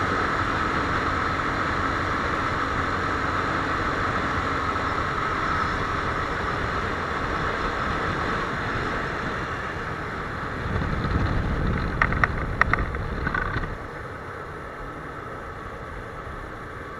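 Viper R2 motorcycle running, with a steady mix of engine and road noise. About eleven seconds in a louder low rumble comes with several sharp clicks, and then the sound settles quieter.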